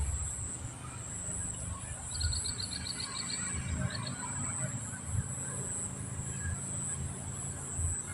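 Outdoor ambience with a bird's quick trill of about ten short, high notes some two seconds in and a couple more a second later, over a steady high-pitched hum and a low rumble.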